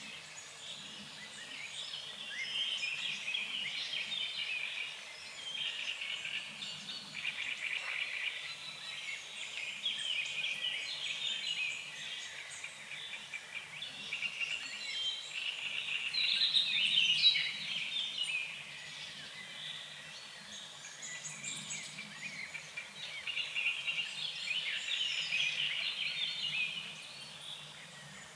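A chorus of frogs croaking, swelling and fading in waves every few seconds, with birds chirping over it.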